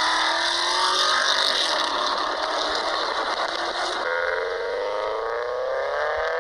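A car engine and exhaust under acceleration. The engine note holds fairly steady at first, then after an abrupt change about four seconds in it climbs steadily in pitch as the revs rise.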